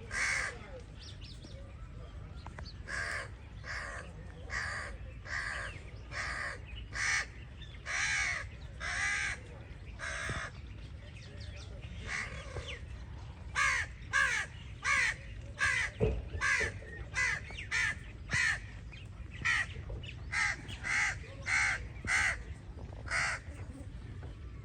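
Crow cawing over and over in a long series of harsh caws, coming faster and louder in the second half, over a steady low rumble.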